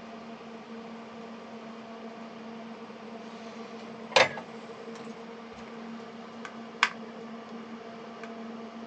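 A small fan or motor on the workbench humming steadily with a low pitched drone, broken by three sharp clicks: the loudest about halfway through, another a little later and one at the very end.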